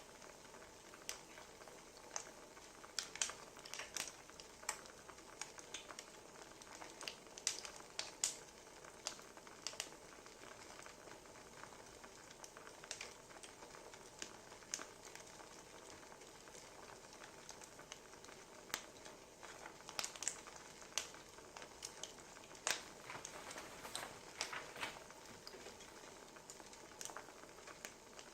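Wood fire crackling: a soft steady hiss with irregular sharp pops and snaps of burning firewood.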